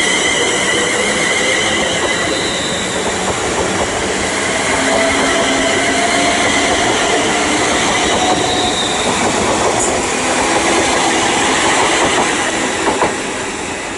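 Class 350 electric multiple-unit train running through the station, steady and loud, with wheels squealing on the rails in a wavering high-pitched squeal.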